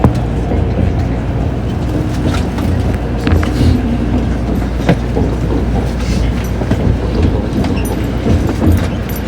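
Tokaido Shinkansen train running, heard from inside a passenger car: a steady low rumble with scattered faint clicks.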